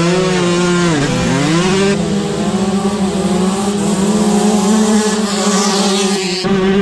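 Two-stroke dirt bike engine running at high revs; its pitch dips and climbs back about a second in, then holds steady.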